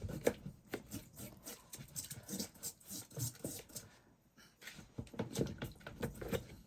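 A paintbrush being cleaned of oil paint: irregular knocks, taps and rustling as it is worked and tapped against the cleaning container. It is loaded so heavily with paint that it is slow to come clean.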